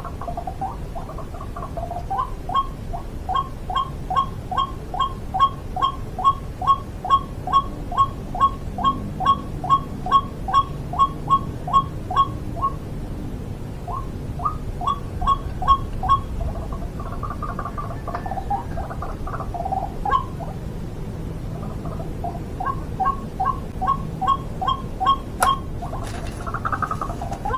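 White-breasted waterhen calling: a long run of short, repeated notes, about two a second. It breaks off about halfway and comes back in shorter runs, with a single sharp click near the end.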